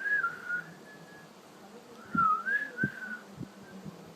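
Cockatiel whistling a tune in two short warbling phrases, one at the start and another about two seconds in, with a few soft low knocks in between.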